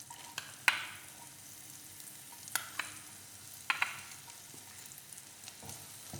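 Spring onion whites sizzling softly in melted butter in a non-stick pan while being stirred, with a utensil knocking against the pan a few times.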